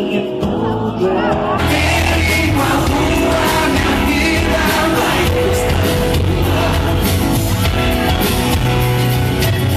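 Live pop-rock band music in a large hall, the full band coming in about a second and a half in, with singing over it.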